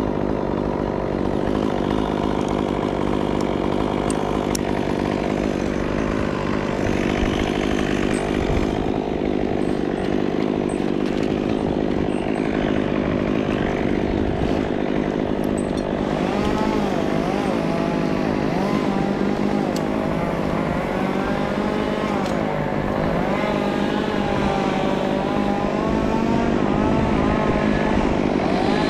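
Chainsaw running continuously. Its pitch wavers up and down through the second half.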